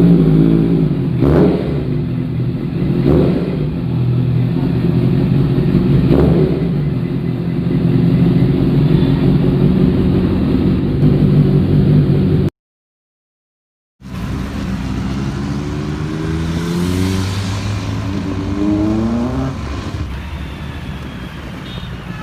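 Sport motorcycle engine running steadily, with three brief sharp sounds over it in the first six seconds. It cuts out for about a second and a half, then comes back rising in pitch several times as the bike accelerates through the gears.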